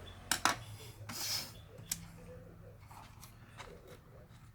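Small clicks and a brief scrape of hard plastic and metal parts being handled while a laptop is disassembled: two sharp clicks near the start, a short scrape about a second in, then a few lighter taps.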